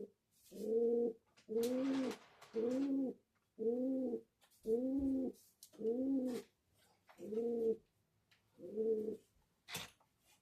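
A dove cooing: a steady run of about nine even coos, roughly one a second, each rising and falling in pitch. A sharp click comes near the end.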